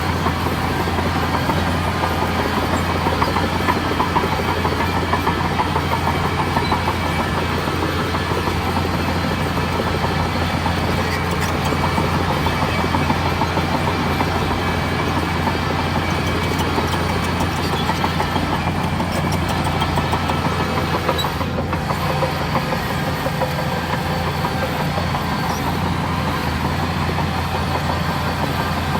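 Bulldozer's heavy diesel engine running steadily under work, a constant low drone with a dense rattle over it.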